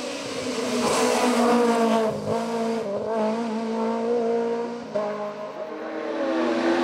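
Race car engine at full throttle, revving up with gear changes: the pitch breaks and drops about two seconds in and again near five seconds.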